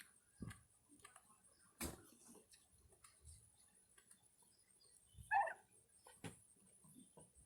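Turkeys pecking: scattered soft ticks and taps, with one short turkey call about five seconds in, the loudest sound.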